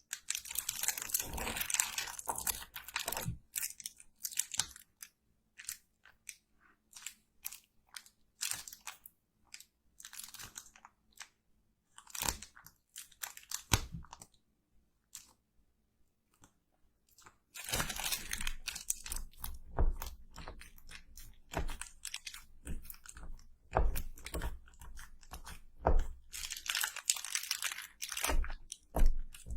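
Close-miked crunching and crackling, made of clusters of sharp clicks with a quiet pause of a few seconds midway.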